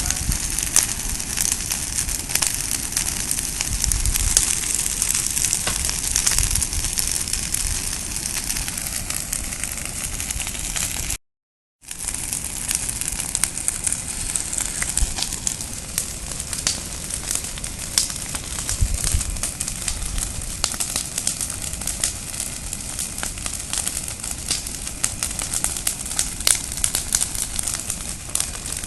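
Large wood bonfire burning, with a steady rushing hiss and constant sharp crackles and pops.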